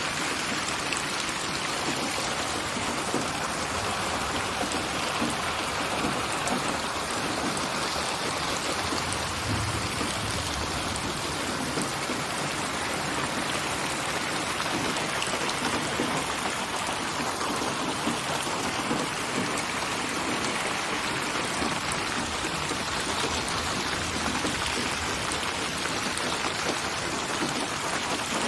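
Steady rain, a dense patter of raindrops on surfaces built from many rain recordings and placed around the listener with 8D binaural spatial processing.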